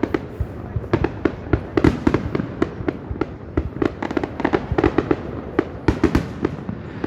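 Aerial fireworks display: shells bursting in a rapid, irregular string of sharp bangs, several a second, over a continuous rumble.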